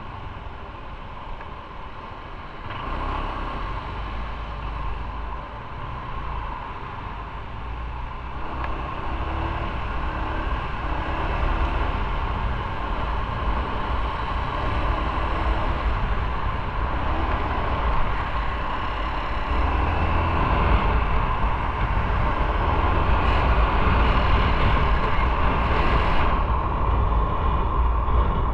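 Motorcycle on the move: engine and road rumble with wind noise, getting steadily louder as it picks up speed.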